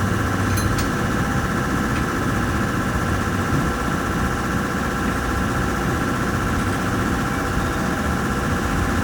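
A drift car's engine idling steadily, a low rumble with a steady whine above it and no revs.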